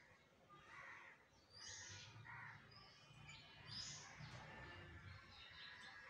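Faint bird chirps and calls: a high call that drops in pitch recurs about every two seconds, with other chirps between and a low hum underneath.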